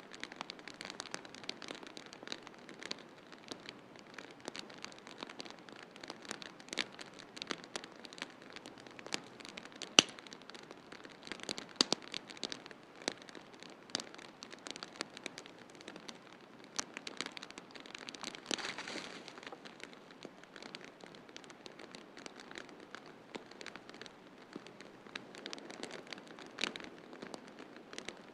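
Wood fire in a fireplace crackling, with a dense run of small pops and snaps over a soft steady hiss, and one sharp louder pop about a third of the way in.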